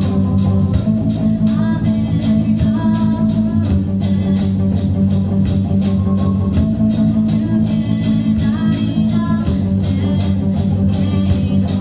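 A rock band playing live, with electric guitar, bass guitar and drums. The cymbals keep a steady beat of about four strokes a second under held guitar and bass notes.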